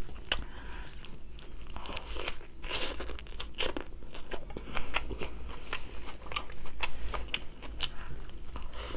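Close-miked chewing of crunchy food: irregular crunches and wet mouth clicks.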